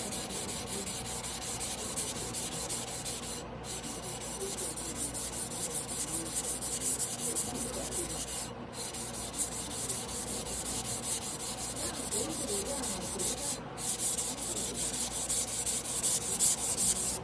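A carbon-steel (blue steel) yanagiba sashimi blade being stroked back and forth by hand on a whetstone, making a steady, rapid, rhythmic scraping.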